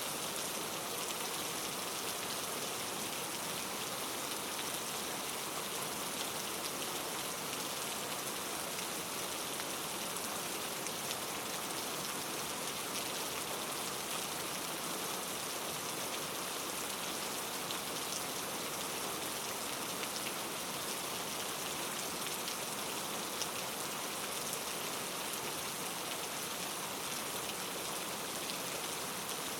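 Steady rain falling, an even hiss of drops on a surface with faint scattered patters.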